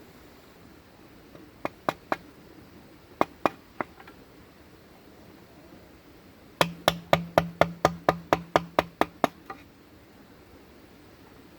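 A tool knocking on bamboo: a few separate strikes, then a quick run of about a dozen sharp knocks, some five a second, with a low steady tone under the run.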